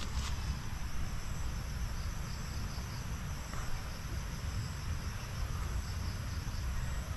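Steady chorus of insects, a continuous high-pitched buzzing, over a steady low rumble.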